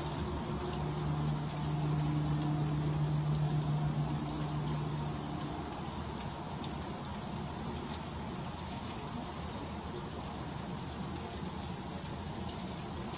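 Freezing rain falling steadily: an even hiss of many fine ticks as ice strikes surfaces. A low steady hum lies under it through the first five seconds or so, then fades away.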